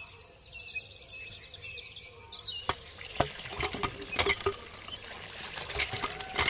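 Birds chirping. A little under halfway in, a run of irregular sharp clicks and light knocks begins.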